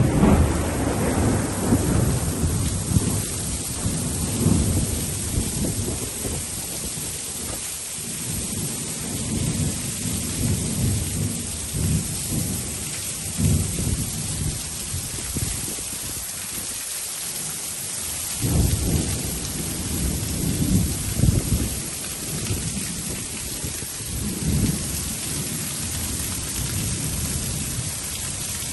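Thunderstorm: steady heavy rain with thunder rumbling. A close clap fades out over the first few seconds, and another long rumble swells about two-thirds of the way through.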